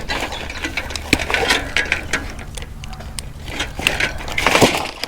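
Irregular clicks, rattles and clatter of scrap being handled and rummaged through in a kerbside junk pile.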